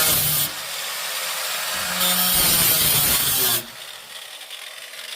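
Power saw cutting through the sheet-metal trunk floor of a 1972 Mustang in two loud runs, the first ending about half a second in and the second from about two seconds in, stopping suddenly a little after three and a half seconds.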